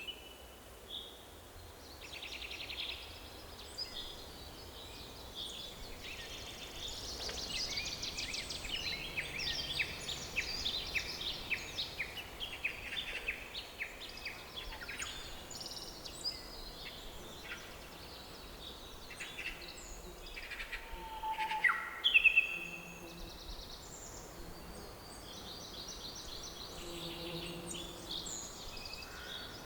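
Several songbirds singing and calling, overlapping trills and short chirps, over a faint steady background hiss. A louder, sharper call stands out about two-thirds of the way through.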